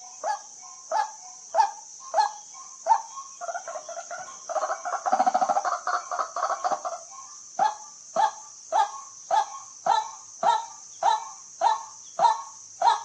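White-breasted waterhen calling. A loud 'kwak' note repeats about twice a second. About three and a half seconds in it breaks into a rapid, dense run of chattering notes for roughly three seconds, then the steady repeated calls resume.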